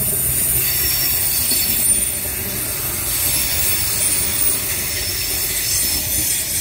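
Adelaide Metro 3000-class diesel railcar passing at close range, its wheels rumbling over the rails, with a high, thin, steady whine above the rumble.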